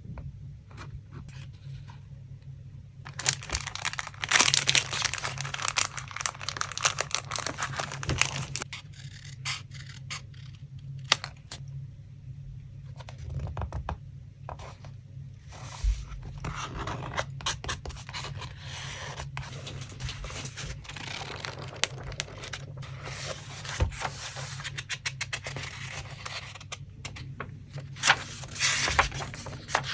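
Paper being handled in collage-making: scraping, rustling and tearing in long stretches, with small taps and clicks between them. A low steady hum runs underneath.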